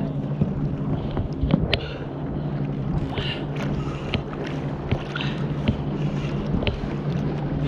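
Sounds aboard a fishing kayak while a fish is being fought: water and handling noise with irregular sharp clicks and knocks, over a steady low hum.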